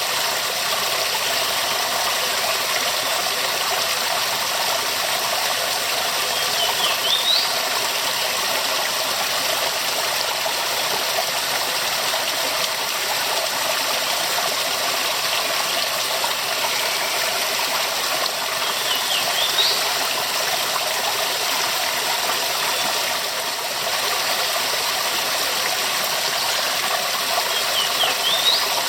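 Waterfall: a steady, full rush of falling water. A short high rising chirp cuts through three times, at about 7, 19 and 28 seconds.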